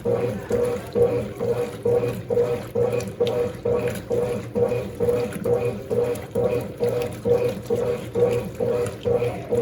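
Mondial Baby BLK20 washing machine agitating a load of dark clothes, the water sloshing in a steady rhythm of about two strokes a second over the hum of the motor.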